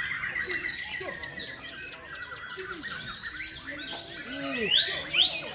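Many caged songbirds singing at once, a dense overlap of quick chirps, trills and clicks, with a couple of sharp rising whistles near the end.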